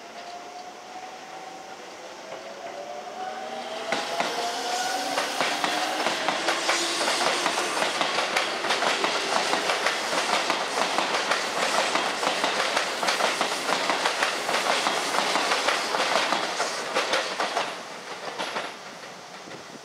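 Electric commuter train pulling out and passing close by, its traction motors whining and rising in pitch as it gathers speed. Then the wheels clatter rapidly over the rail joints and points for a long stretch, falling away near the end as the last car passes.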